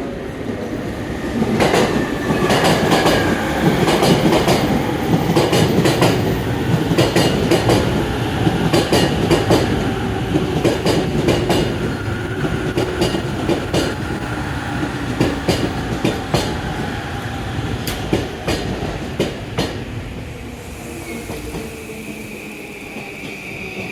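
JR East E235 series 15-car rapid train pulling into the platform and braking: wheels clack over the rail joints, the clacks spacing out as it slows, under a slowly falling motor whine. A steady high whine sets in near the end as the train comes to a stop.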